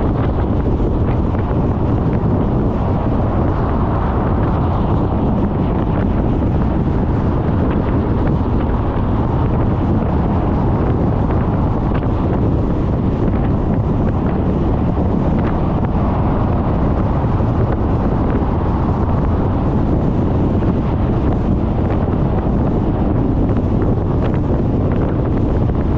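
Steady wind noise rushing and buffeting over the microphone of a GoPro mounted on a moving Suzuki Burgman 400 scooter, covering the road and engine sound.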